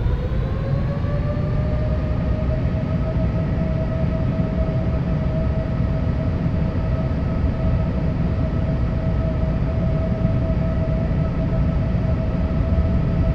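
Boeing 787 jet engine noise inside the cabin: a whine that rises in pitch over the first couple of seconds as the engines spool up, then holds steady over a constant low rumble.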